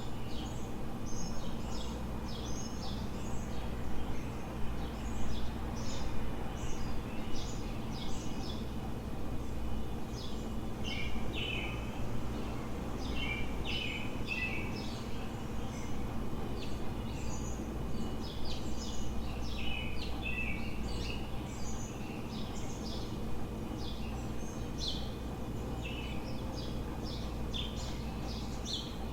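Many songbirds chirping and singing in short repeated phrases, over a steady low city hum.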